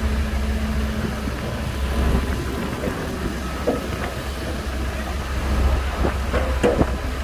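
Shantui bulldozer's diesel engine running with a steady low rumble, with a few short knocks and clanks in the second half.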